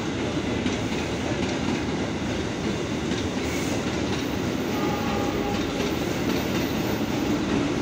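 Electric commuter train running past: a steady rumble and clatter of steel wheels on the rails.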